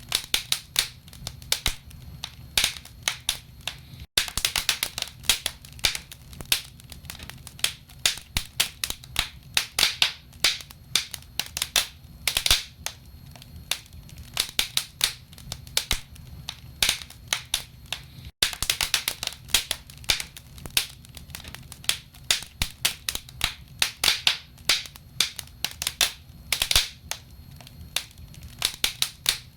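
Wood fire crackling in a fireplace: dense, irregular snaps and pops of burning logs over a low, steady rumble.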